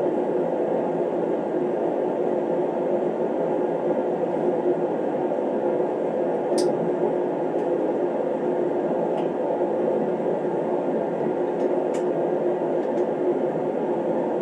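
Shop space heater running: a steady hum over an even, constant noise, with a couple of faint clicks partway through.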